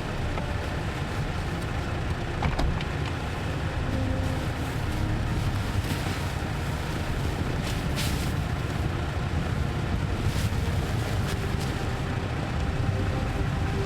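Toyota Tacoma pickup's engine running steadily as the truck is eased slowly back out of deep snow, with a few faint clicks and knocks over the engine sound.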